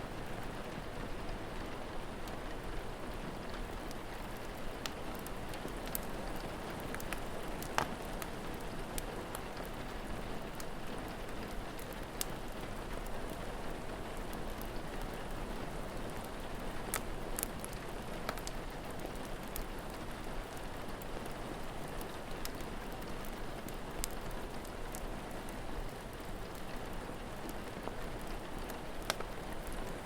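Steady rain falling, with scattered sharp crackles and pops from a wood fire, the loudest about eight seconds in.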